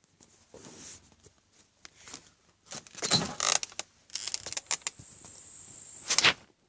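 Small campfire of paper and spruce branches crackling just after catching: irregular snaps and rustling, with louder bursts about three seconds in and near the end.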